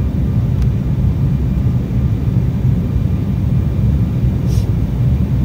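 Steady, deep rumble of an Embraer E190 airliner in flight, heard inside the cabin, from its CF34 jet engines and the airflow. There is a faint click about half a second in and a short hiss about four and a half seconds in.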